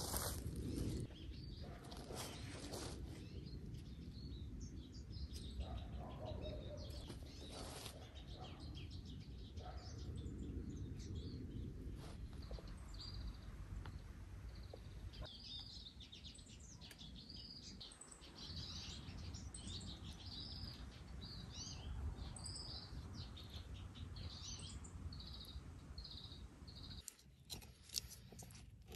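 Small birds chirping, a run of short repeated calls from about halfway on, over a steady low background noise. A few brief rustles come in the first few seconds.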